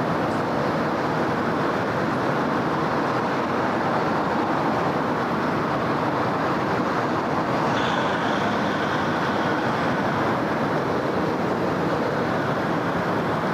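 Steady roar of city road traffic: the tyres and engines of passing cars, buses and trucks blend into one continuous noise. A faint high squeal rises over it about eight seconds in and lasts a couple of seconds.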